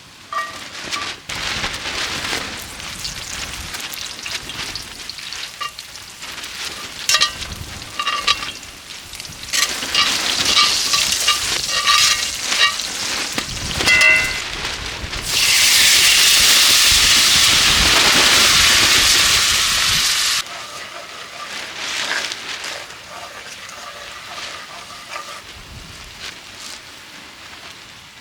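Pork belly frying and sizzling in a pan over a campfire, with crackles and short clinks from stirring. About fifteen seconds in, the sizzle swells into a loud, dense hiss for about five seconds and then cuts off suddenly, falling back to a quieter fry.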